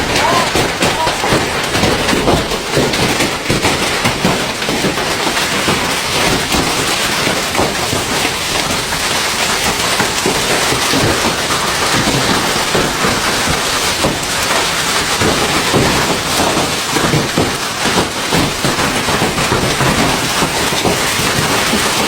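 Hailstorm: hailstones pelting down in a dense, continuous clatter of countless hard impacts, loud and steady throughout.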